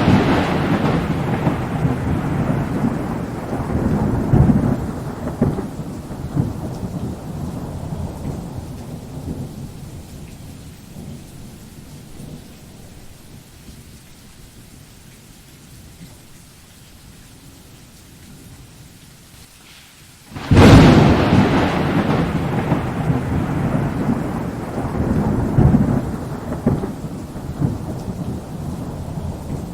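Thunderstorm: a thunder rumble dying away over about ten seconds to steady rain, then a sudden loud thunderclap about two-thirds of the way through, followed by long rolling rumbles with rain underneath.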